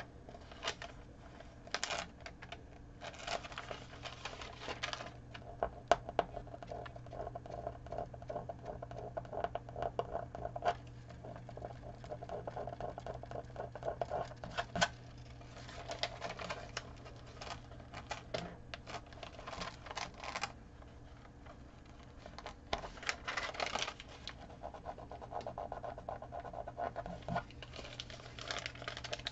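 Vinyl decal and transfer tape being handled and pressed into place on a canvas: irregular rustling, crinkling and scraping with scattered sharp clicks, in patches with short pauses between. A steady low hum runs underneath.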